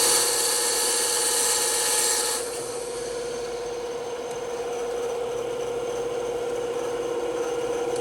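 Bandsaw running with a steady hum, its blade cutting through wood with a bright hiss for the first couple of seconds, then stopping as the blade runs free.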